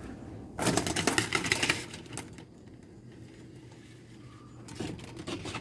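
A rapid clatter of many quick clicks, starting about half a second in and lasting about a second and a half, then a few softer clicks near the end.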